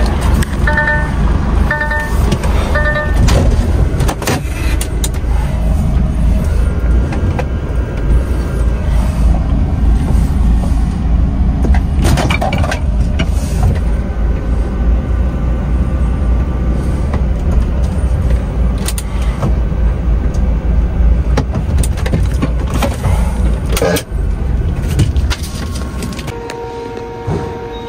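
Heavy truck's diesel engine running with a steady low rumble. Reversing beeps sound about once a second for the first few seconds, with clicks and knocks over the engine throughout.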